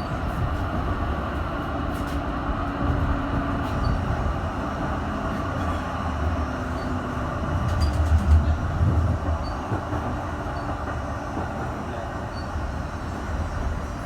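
M8C tram running on rails, a steady rolling noise with a low rumble that swells and eases about eight seconds in.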